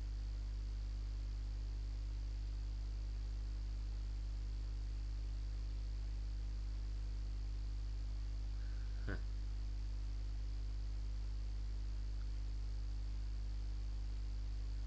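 Steady electrical mains hum with a faint high whine and hiss, and one short click about nine seconds in.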